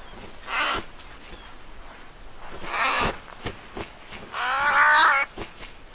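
Cartoon bird cries from animated fat birds: two short harsh squawks, one about half a second in and one near the middle, then a longer wavering call near the end.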